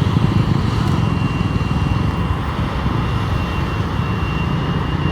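A motor vehicle's engine running steadily: a continuous low rumble with a faint steady high whine above it.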